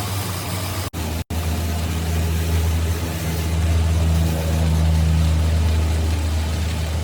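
An engine running steadily at idle, a low hum that cuts out twice for an instant about a second in and then runs on louder.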